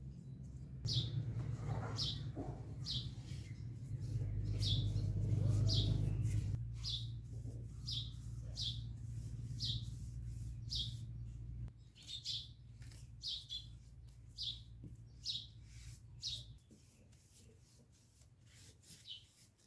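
A bird repeating the same short, high chirp over and over, about one and a half a second, over a low steady hum that fades out in the last few seconds.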